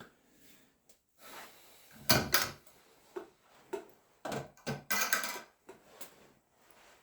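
A series of knocks and clatters from objects being handled, with a loud cluster about two seconds in and another, longer one between about four and five and a half seconds in.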